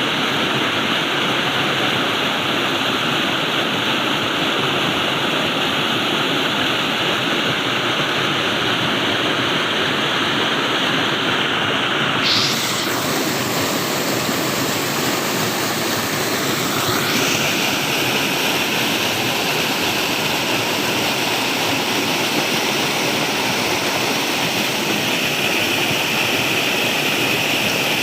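Flowing water rushing steadily. Its tone shifts abruptly about twelve seconds in.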